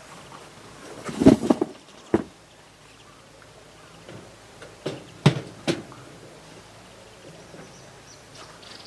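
A few short, sharp knocks or clatters: a cluster about a second in, one just after two seconds, and two more a little after five seconds.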